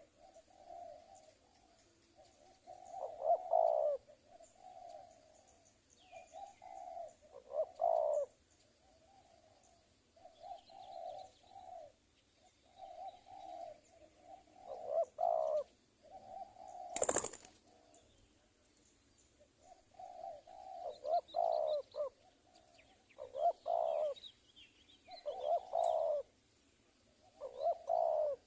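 Spotted doves cooing in repeated phrases every second or two, with a single sharp click about two-thirds of the way through.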